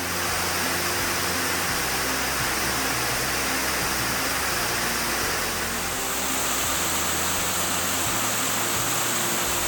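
Steady rushing water under background music with slow, held low notes that change every second or two.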